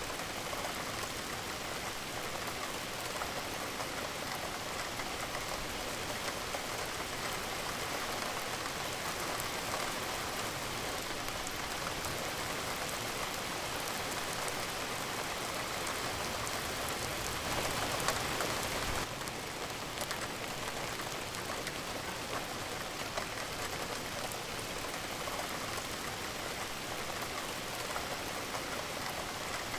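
Steady rain falling, a dense patter of drops on surfaces. It swells briefly louder about two-thirds of the way through, then settles back.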